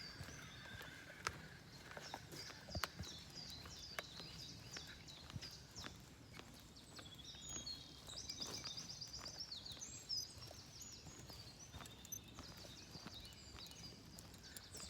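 Faint woodland birdsong: several birds singing high phrases and trills, with a fast run of repeated notes in the middle. Scattered footfalls and clicks on the path can be heard through it.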